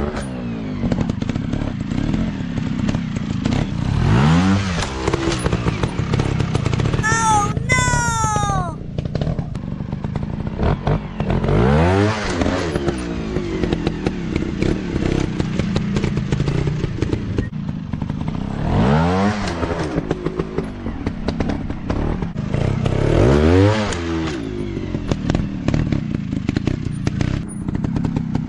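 Off-road motorcycle engines running, revving up and back down about four times as the bikes ride. A brief high call falling in pitch, such as a shout, cuts in about seven seconds in.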